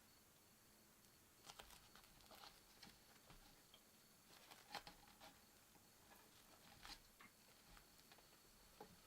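Near silence broken by faint, scattered small clicks and taps of someone eating quietly: chopsticks or utensils touching a dish, and chewing.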